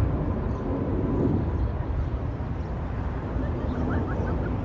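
Jet noise from an Airbus A350-941 and its Rolls-Royce Trent XWB engines: a steady low rumble with a faint, thin steady whine.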